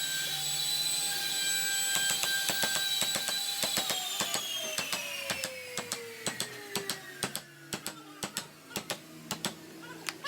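A small power tool's motor runs at a steady high whine, then is switched off about three and a half seconds in and winds down, its pitch falling smoothly over several seconds. Sharp irregular clicks and ticks sound throughout.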